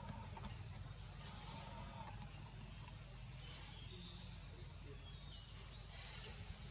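Faint bird chirps, a few short high calls, over a steady low background rumble.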